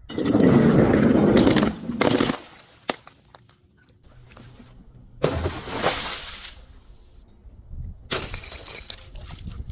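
Glass being crushed and breaking: a long crunching, shattering burst in the first second and a half, a sharp crack around three seconds in, and further crunching bursts about five and eight seconds in.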